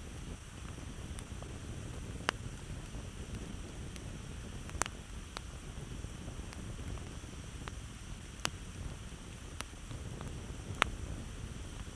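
Campfire burning, with sharp wood crackles and pops every second or so over a low, steady rumble; one pop near the end is the loudest.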